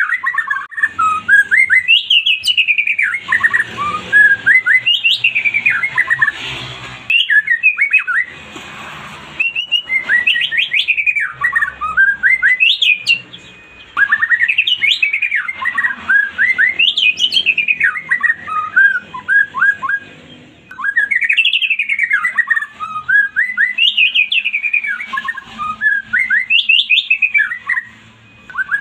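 White-rumped shama (murai batu) singing: phrase after phrase of quick rising and falling notes, each phrase about two seconds long, with short pauses between.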